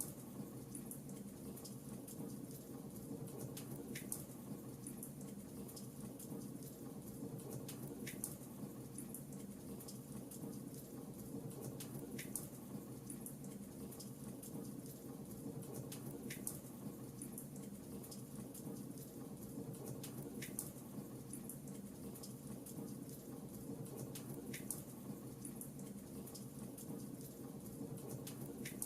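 Fireplace crackling: a steady low rush of burning with scattered small pops and a sharper crack about every four seconds.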